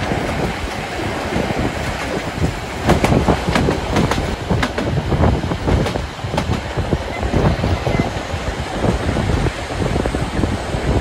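A train running along the track, with an irregular rattle of clicks and knocks from the wheels and carriages.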